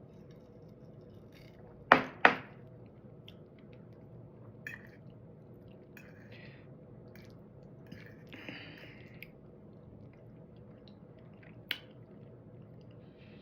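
A person eating close to the microphone: soft chewing and mouth sounds, with two sharp clicks of utensils or dishes about two seconds in and another near the end.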